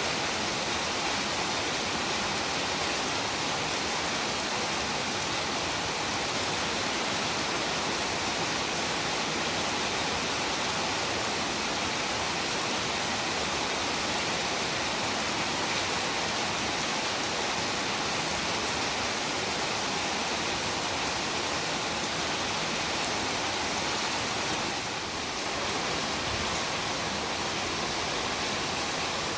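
Heavy rain falling steadily, a dense even hiss with no single drops standing out; it eases slightly for a moment near the end.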